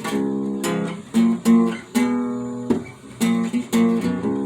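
Acoustic guitar strumming chords, each strum ringing on until the next, about two strums a second.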